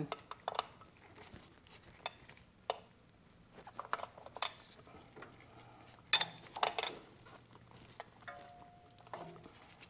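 Scattered metallic clinks and taps of hand tools working the fuel-line fittings as they are loosened, with a louder pair of clanks about six seconds in and a brief squeak near the end.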